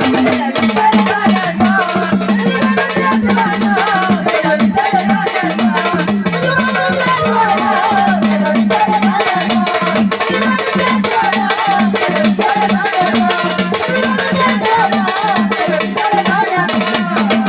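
Marathi gondhal devotional folk music: a wavering melody over a steady, even drum beat with a shaken rattle.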